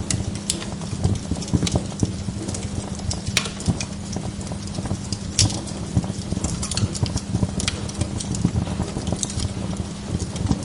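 Wood log fire in a fireplace crackling: irregular pops and snaps, a few sharper than the rest, over a steady low rumble.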